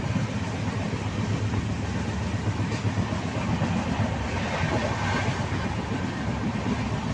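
Train running on the rails with a steady rumble and rattle.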